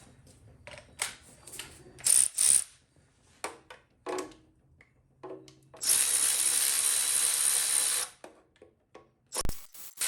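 A power tool runs steadily for about two seconds, backing out the oil pan bolts on a small-block LT1 engine, among short metal clinks of tools and sockets on the bolts. Quick ratchet-like clicks come near the end.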